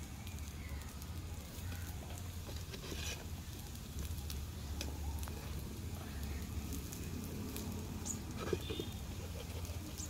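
Banana-bread patties frying in ghee on a tava over a wood fire: a low, steady sizzle and crackle. Now and then the metal spatula clicks and scrapes against the pan as the patties are turned.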